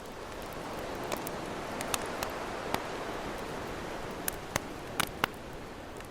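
Campfire crackling, with sharp irregular pops, over the steady wash of ocean waves, which swells through the middle and eases off.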